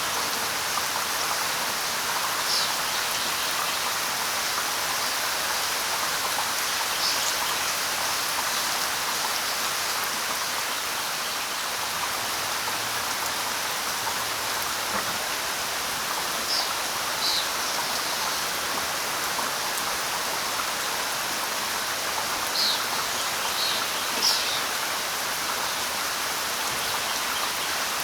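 Steady light rain falling, with a few short, high bird chirps scattered through it.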